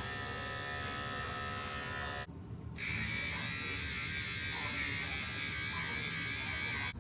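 A steady electric buzzing hum made of many evenly spaced tones. It drops out briefly about two seconds in and comes back with a slightly different tone.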